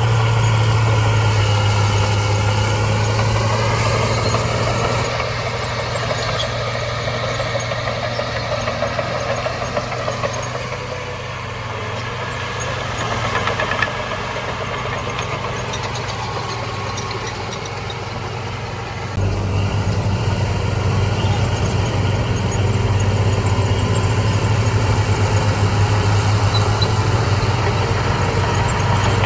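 Heavy diesel earthmoving machine engine running with a steady low drone and mechanical noise, getting suddenly louder about two-thirds of the way through.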